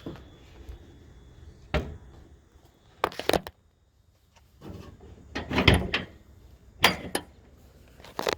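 A series of separate knocks and clunks, like a door or latch being handled. The loudest and longest run of clunks comes about halfway through, with shorter single knocks before and after.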